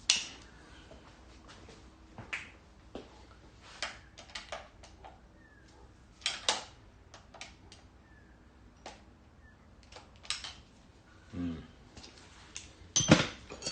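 Irregular metallic clicks and taps of hand tools working on the timing-chain bolts and their lock tabs on a Fiat 500 engine. A brief voice-like sound comes near the end and is the loudest thing.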